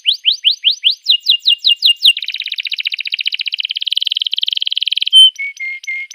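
Canary singing. It opens with a string of quick rising whistled notes, then falling notes. A fast, even trill follows for about three seconds, then one sharp, loud note and a few short lower notes near the end.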